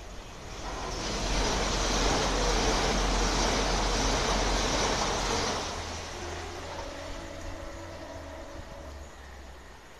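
Class 395 Javelin electric train passing through at speed. A rush of wheel and air noise swells within about a second, stays loud for about four seconds, then fades as it draws away, leaving a faint hum.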